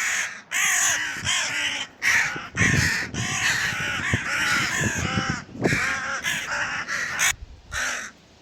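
Several crows cawing loudly, a near-continuous run of harsh overlapping calls with a short pause near the end. They are raising an alarm over their chick that has fallen out of the nest.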